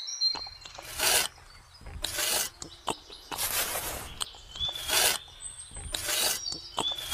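A small trowel scraping wet cement mortar onto the top of a miniature brick wall: a series of short scraping strokes about a second apart, one of them longer near the middle.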